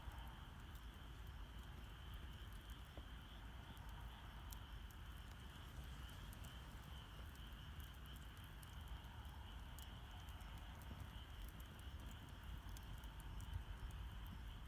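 Wood campfire crackling faintly, with scattered small sharp pops, over a steady high trill of the spring night and a low rumble.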